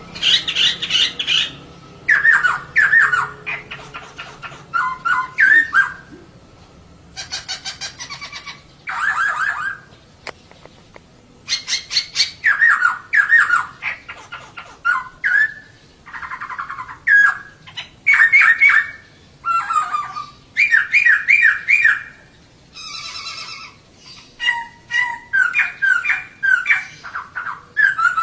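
Female poksay (laughingthrush) calling in short bursts of rapid chattering notes, one burst every second or two with brief pauses between.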